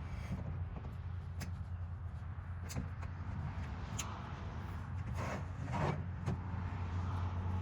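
Motorcycle loading ramps being pulled out and handled: scattered clicks and knocks, with two short scrapes about five and six seconds in, over a steady low hum.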